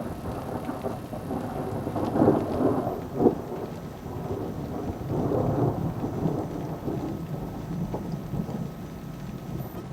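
Thunder rumbling in rolling swells over rain, louder about two seconds in and again near the middle, with a sharp crack a little after three seconds.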